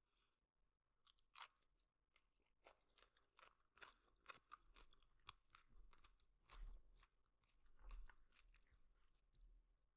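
Close-miked, quiet chewing of noodles: soft wet mouth clicks and smacks at irregular intervals, a few a second.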